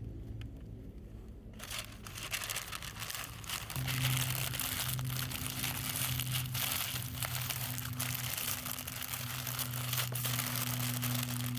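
Dense crackling and crinkling made of many small clicks, starting about one and a half seconds in. A steady low hum joins it about four seconds in.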